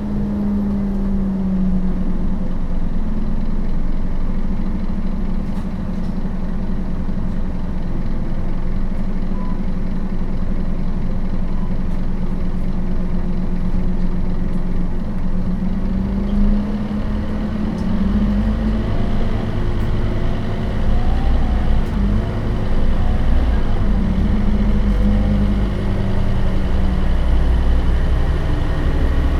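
Five-cylinder Scania DC9 turbodiesel of a Scania K270UB bus with a ZF Ecomat automatic gearbox running steadily. Its note shifts in pitch about halfway through and again near the end, and the low rumble grows louder in the later part.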